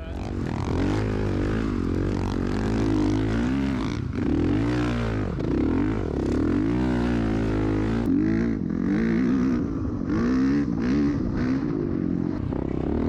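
Off-road vehicle engines revving up and down over and over, over another engine running at a steady pitch.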